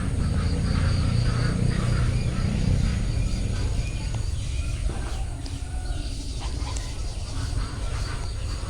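Bantam chickens and other birds making short scattered calls over a steady high insect trill, with a low rumble that is heaviest in the first three seconds.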